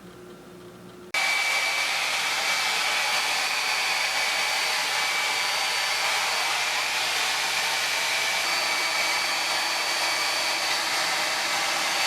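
A steady, loud hiss with a faint high whine in it, cutting in suddenly about a second in.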